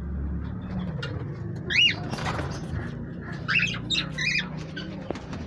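Pet birds calling: a single short call about two seconds in, then a quick run of short calls a little later, over a low steady hum.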